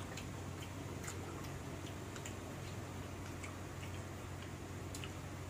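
Faint, irregular clicks of chewing and mouth sounds from eating crisp green mango slices, over a low steady hum.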